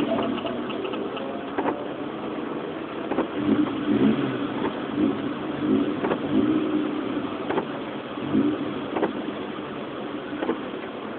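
Car engine heard from inside the cabin, revving up and easing off again and again through the gears, over a steady hiss of heavy rain. A short click comes about every second and a half.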